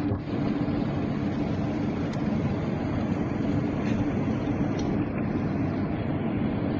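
Steady machinery hum with an even background rush and a constant low tone, no change in level.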